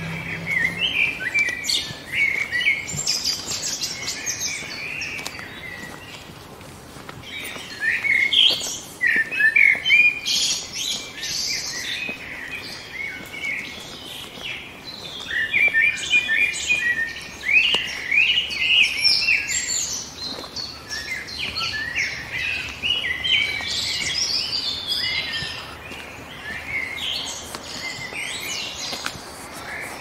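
Several songbirds singing and chirping together, a busy chorus of short, quick high notes that overlaps and thins out in a few quieter spells.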